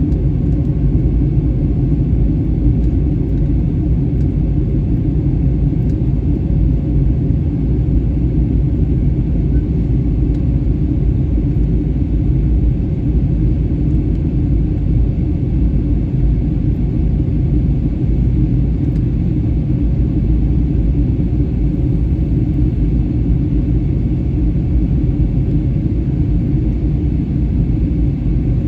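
Steady low rumble of jet engine and airflow noise inside the cabin of a Wizz Air Airbus A320-family airliner during its descent, loud and even throughout.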